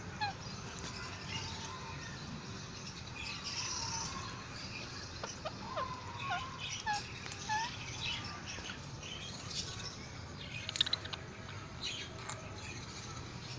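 Indian ringneck parakeet chirping: short, scattered chirps over a steady background hiss, with a sharper call about eleven seconds in.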